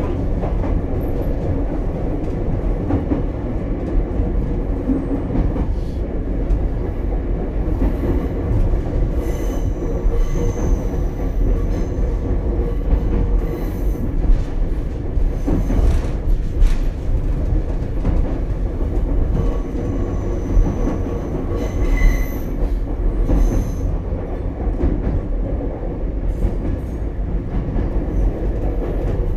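Ichibata Electric Railway 7000-series railcar running at speed, a steady rumble of wheels on rail heard from inside the car. Short high wheel squeals come and go a couple of times, with a few sharp knocks from the track.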